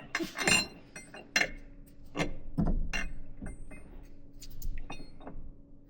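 Irregular metallic clinks and knocks of hand tools on a stuck wheel hub being worked off an air seeder's spindle, the loudest in the first three seconds and lighter taps after. The hub has not yet come free.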